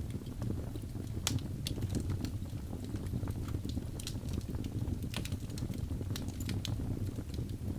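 Wood logs burning in a fireplace: a steady low rumble of the fire with irregular sharp crackles and pops, sometimes several a second.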